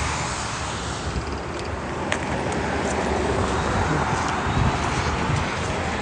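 Road traffic: cars passing on a street, a steady rush of tyre and engine noise with a low rumble that eases and swells again.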